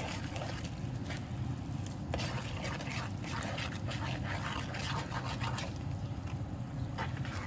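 Buttery broth simmering in a nonstick pan, bubbling and popping in many small ticks, while a plastic spoon stirs it and scrapes the pan bottom.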